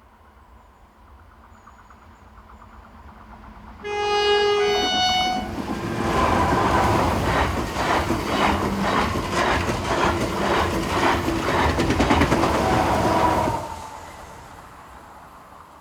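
RENFE Class 730 Talgo train sounding a two-note horn, a low note then a higher one, then passing close by with a rhythmic clatter of wheels over rail joints. The sound dies away quickly once the train has gone by, about two seconds before the end.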